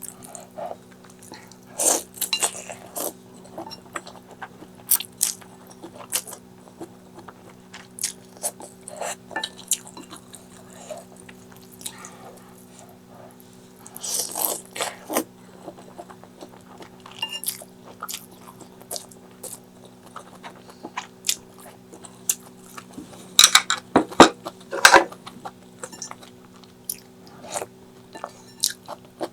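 Close-miked eating: irregular wet chewing and crunching clicks, with louder bursts of bites about two seconds in, around the middle and again near the end, over a steady low hum.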